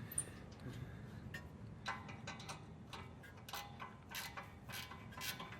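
Ratchet spanner clicking in short irregular runs as a nut is worked, faint.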